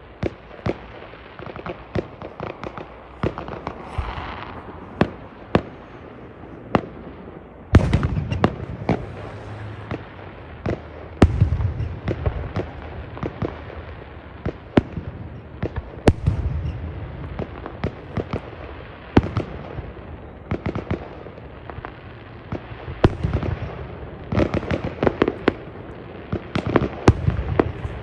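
Fireworks going off: an irregular run of sharp bangs and crackling pops, with heavier booms about eight, eleven and sixteen seconds in and a dense volley near the end.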